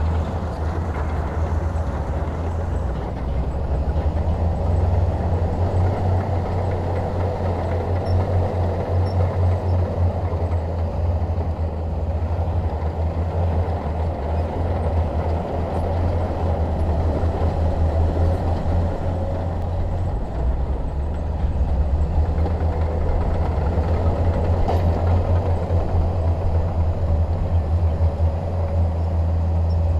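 Shantui DH17 crawler bulldozer's diesel engine running steadily under load, with a heavy low drone and a rough, grinding mid-range noise of the working machine.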